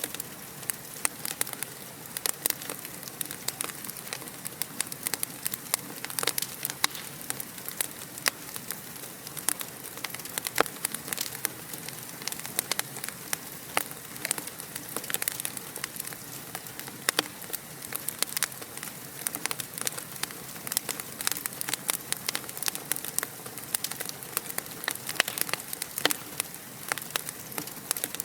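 Wood fire crackling in a fireplace: a steady soft hiss with many sharp, irregular pops and snaps.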